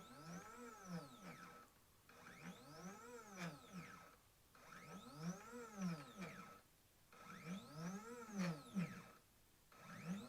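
Stepper motors on a 3018 desktop CNC router jogging an axis in a series of short moves, about one every two and a half seconds. Each move has a whine that rises in pitch as the motor speeds up and falls as it slows to a stop, over a steady high tone from the driver.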